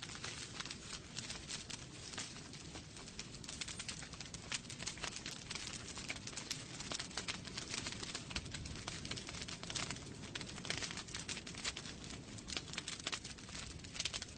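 Wood fire burning in a fireplace: logs crackling and popping in dense, irregular snaps over a steady low rush of flame.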